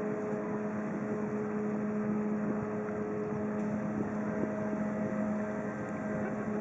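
The cruise ship Michigan's engine running steadily, a constant low hum over a wash of noise.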